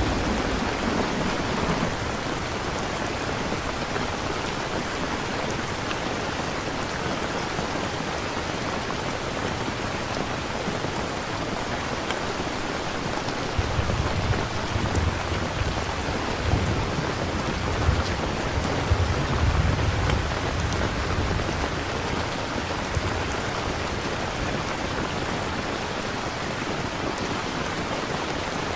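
Steady heavy rain. About halfway through, a low rumble of thunder rolls for several seconds.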